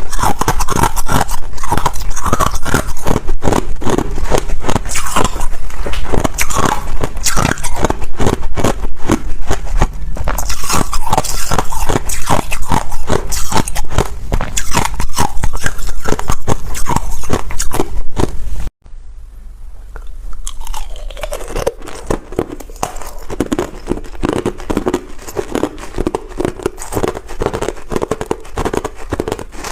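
Ice being bitten and chewed close to the microphone: rapid, dense crunching. About two-thirds of the way through it cuts off abruptly, then picks up again quieter, with a duller, lower crunch.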